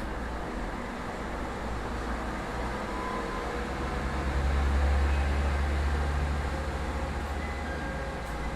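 Inside an ET127 series electric train car: a steady hiss and rumble, with a low rumble that swells for about two seconds near the middle and then fades.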